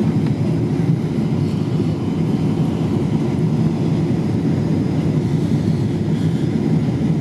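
Boeing 777-200 airliner's jet engines and airflow making a steady low rumble on the approach to landing.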